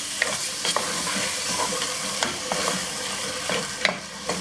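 Chicken pieces frying in oil and masala in an aluminium pressure cooker, sizzling steadily while a wooden spoon stirs them. The spoon scrapes and knocks against the pot now and then, with one louder knock near the end.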